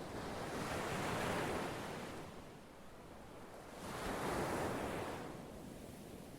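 Ocean waves washing ashore: two swells of surf, one about a second in and another about four seconds in, each rising and then fading into a softer hiss.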